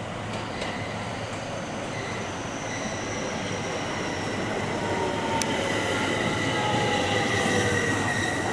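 Ohmi Railway 800-series electric train moving on the track, its steel wheels squealing with several high, steady tones that sag slightly in pitch over a low rumble, growing louder as it comes closer.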